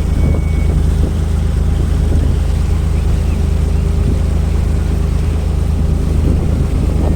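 Engine running with a steady low drone, with wind buffeting the microphone.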